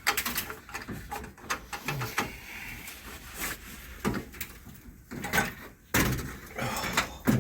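Radiator being worked loose and pulled out of a car's engine bay: a run of clunks, knocks and scraping as metal parts are handled.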